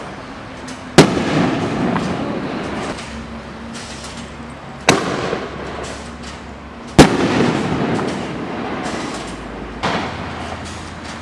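Keystone Color Rush Neon Shells firework cake firing aerial shells. Three loud booms come about 1, 5 and 7 seconds in, with a weaker one near 10 seconds, and each dies away in a fading rumble.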